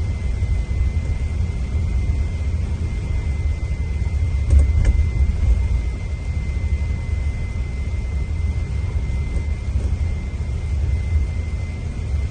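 Scania diesel engine of a Marcopolo Paradiso 1800 DD double-decker coach running: a steady low rumble with a thin, steady high tone over it, and a couple of knocks about four and a half seconds in.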